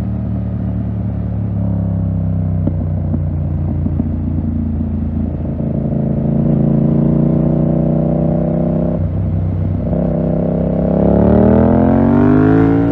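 Yamaha MT-07's 689 cc parallel-twin engine through a full SC-Project 2-1 exhaust, pulling at a steady engine speed, dipping briefly about nine seconds in, then revving up hard and levelling off near the end.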